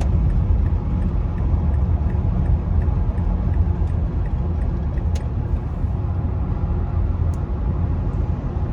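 Inside the cabin of a 2008 Mazda CX-9 on the move: steady road and engine rumble, with a faint regular ticking about three times a second through the first half and a sharp click about five seconds in. The ticking fits the mystery creak, which the owner thinks follows the turning of the wheels and which is quieter on right-hand turns.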